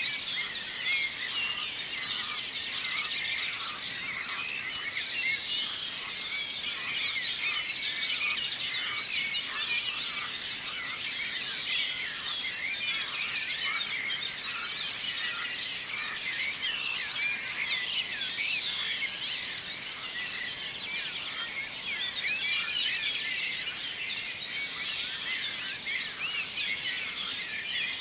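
Morning dawn chorus of many songbirds singing at once: a dense, continuous tangle of overlapping chirps, trills and short whistles.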